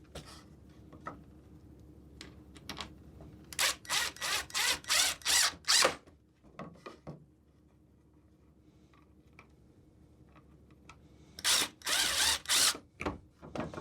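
Power drill driving 1.5-inch wood screws into half-inch plywood, run in short trigger bursts: a quick series of about seven pulses, then a second group of pulses near the end.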